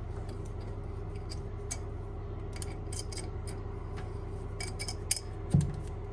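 Light clicks and ticks of plastic toilet cistern parts being handled, with a low thump about five and a half seconds in, over a steady low hum.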